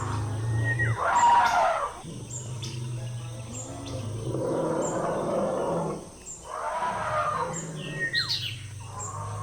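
Elephant calls: three rough blasts of about one to two seconds each, over steady bird chirping and a low hum.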